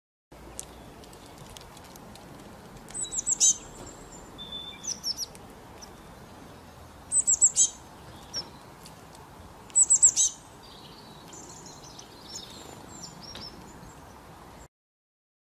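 A songbird singing: three loud phrases of quick, very high notes falling in pitch, roughly every three to four seconds, with softer chirps in between, over a faint steady hiss.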